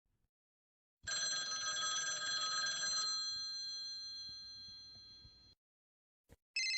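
A bell ringing with a rapid trill starts suddenly about a second in. After about two seconds the trill stops and the bell rings on, fading out over a few seconds. Just before the end, another steady ringing tone starts.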